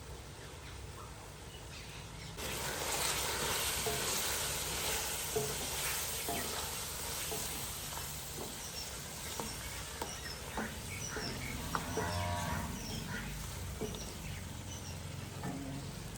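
Food starting to sizzle in hot oil about two seconds in, then frying steadily with scattered clicks. A cow moos briefly near the middle, and small birds chirp.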